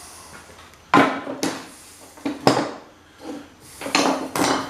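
Metal parts of a pump motor clanking and knocking together during disassembly: about five sharp metallic hits, each with a short ring.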